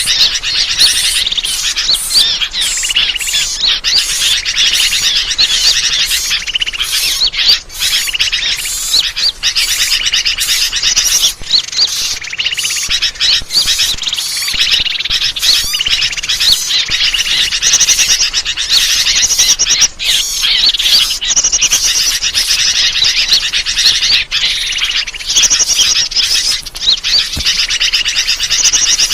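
Bird-lure (pikat) recording: a dense, continuous chorus of many small birds chirping and twittering at high pitch, played to draw birds in.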